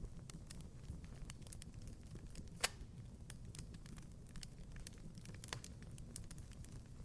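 Wood fire crackling: irregular sharp pops and ticks over a low, steady rumble, with one louder pop about two and a half seconds in.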